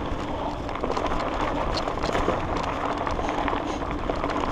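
Mountain bike riding on a dirt forest trail: a steady rush of tyre and trail noise, with many small clicks and rattles from the bike bouncing over the ground.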